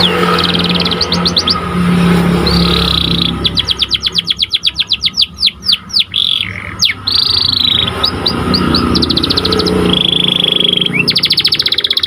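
Domestic canary of the pied 'panda' colouring singing a continuous song. It alternates fast rolling trills of rapid repeated notes with downward-slurred whistles and short held buzzy notes.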